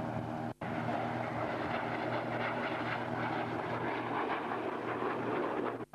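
Aircraft engines running steadily: a constant hum under a broad rushing noise, with a brief dropout about half a second in.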